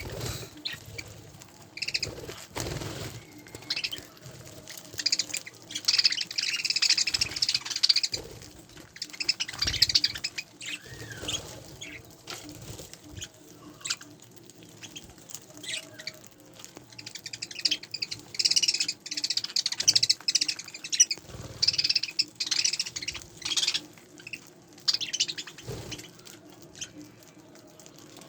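A group of budgerigars chirping and chattering, in bursts of many short, high chirps with quieter stretches between.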